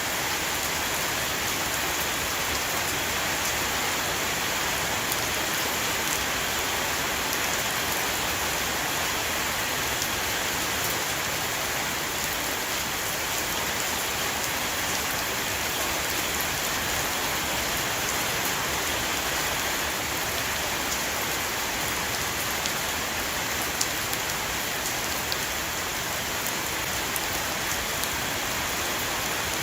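A steady, heavy rain shower pattering on a roof, a dense even hiss with many individual drop ticks.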